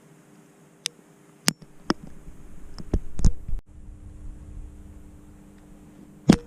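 A series of sharp knocks and clicks over a low steady hum. Near the middle a low rumble comes with a cluster of louder knocks, and one more loud knock comes near the end.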